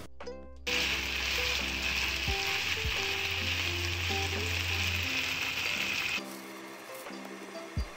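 Sliced pork and onions in ginger sauce sizzling in a frying pan as they are turned with tongs. The sizzle starts just under a second in and cuts off suddenly about six seconds in.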